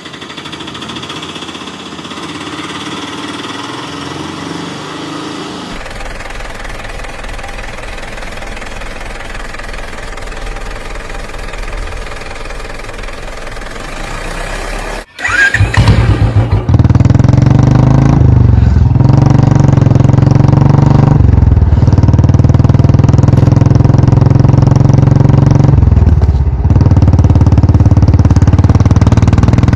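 A motor running steadily, then after a sudden break about halfway through, a much louder engine running with a deep, even hum that dips briefly a few times.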